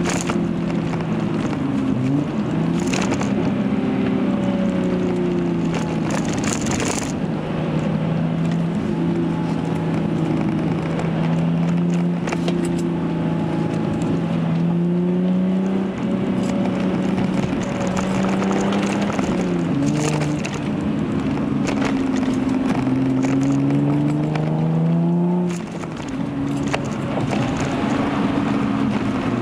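Hyundai Genesis Coupe 3.8's V6 running through a Young Motors catback exhaust, heard from inside the cabin while driving. The engine note rises under acceleration and drops sharply several times as the car shifts or lets off.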